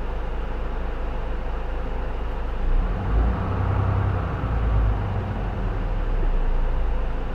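Diesel engine and drivetrain of a J-Bus PKG-LV234L2 (Isuzu Erga) city bus under way, heard from inside the bus. The engine's low hum swells louder about three seconds in and stays up.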